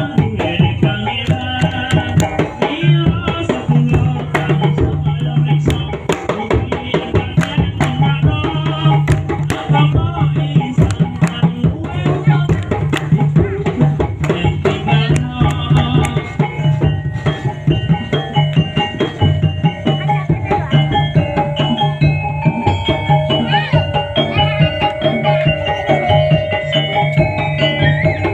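Topeng Ireng dance music played live: drums and other percussion keeping a fast, steady rhythm, with a sustained melody line joining in the second half.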